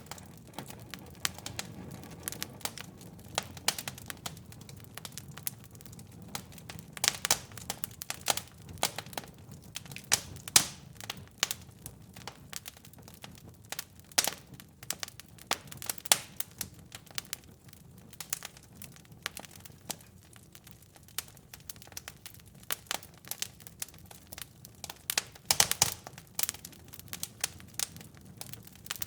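Fireplace fire crackling, with irregular sharp pops and snaps that bunch into quick flurries a few times, over a low steady rumble of the flames.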